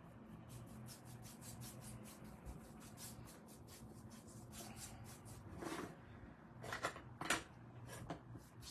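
Paintbrush brushing acrylic paint onto a wooden cutout: quick, repeated rubbing strokes, with a few louder strokes a little past halfway.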